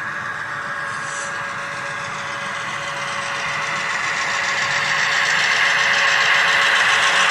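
Model train running on the track, its motor giving a steady hum and its wheels a fast clicking, growing louder from about halfway through as it comes closer.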